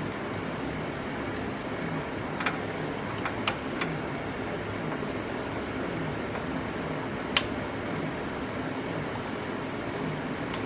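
Steady background hum and hiss, with a few light sharp clicks: one near 2.5 s, two close together around 3.5 s, and one more around 7.5 s.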